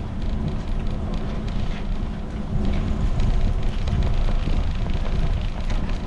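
Wind buffeting a bike-mounted action camera's microphone while riding a fixed-gear bicycle, over a steady rumble from the tyres with scattered light clicks.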